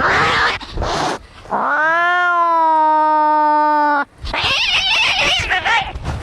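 Angry domestic cats in a fight: harsh, noisy cries, then one long yowl of about two and a half seconds that rises at the start and holds steady. It cuts off suddenly and is followed by more harsh, noisy cries.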